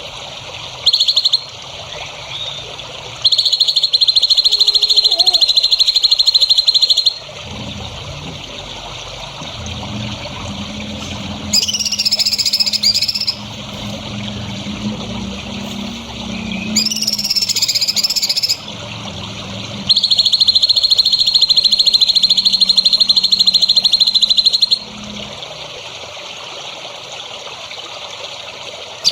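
Songbird calls: two long, fast, buzzy trills of several seconds each, early on and again about 20 s in, with two short whistled, warbling phrases between them. Underneath runs a steady trickle of water and, through the middle, a low pulsing hum.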